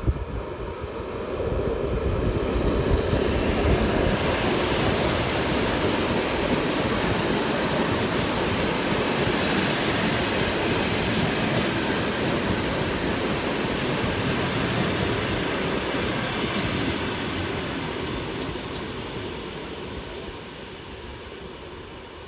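Electric commuter train passing at speed: the rumble and rolling noise of its wheels on the rails builds about a second in, holds steady as the carriages go by, then fades away near the end.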